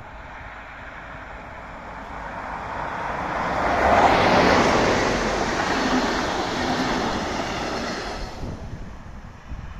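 EU07 electric locomotive and its passenger coaches passing close by: the rumble of the train on the rails grows to its loudest as the locomotive goes past about four seconds in, carries on as the coaches roll by, then drops away near the end.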